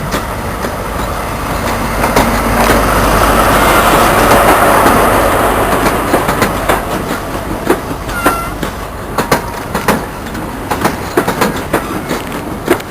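A train passing: a rush of running noise that builds to its loudest about four seconds in and then eases, with a run of sharp clicks as the wheels cross the rail joints.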